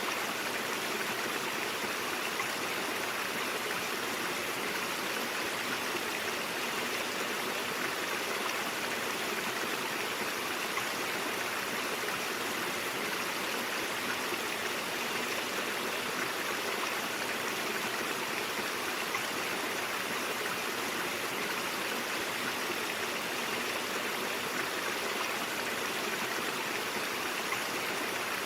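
A brook flowing steadily, a constant rush and splash of water with no breaks.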